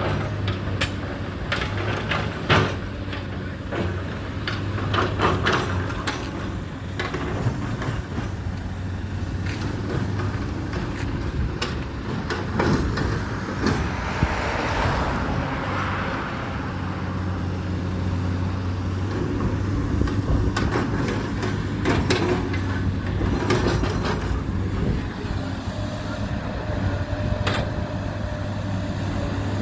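Heavy diesel vehicle engine running steadily, with scattered knocks and clatters throughout and a hiss swelling up about halfway through.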